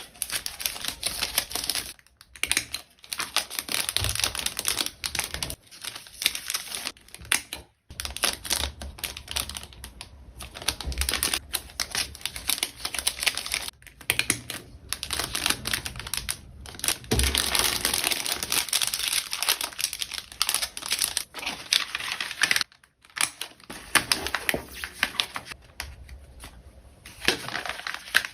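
Order packing handled close up: a dense run of crinkling, tapping and clicking from plastic packaging and small items, broken by a few short pauses.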